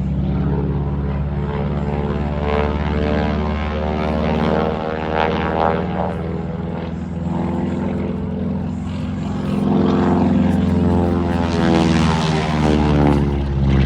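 Propeller airplane flying past, its engine and propeller running loud, with the tone sweeping up and down as it passes; it swells again near the end.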